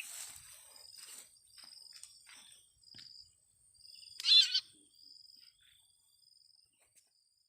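Small bird calls: short faint high chirps and one louder, harsh call about four seconds in, likely from the freshly trapped male sirtu (iora) and birds around it. A faint steady high tone runs underneath.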